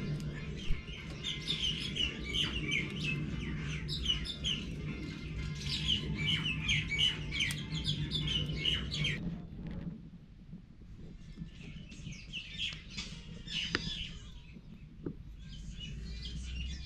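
Several birds chirping and calling in quick, repeated short notes, over a low steady rumble that fades out about nine seconds in and returns near the end. The chirping thins out after the rumble drops, then picks up again briefly.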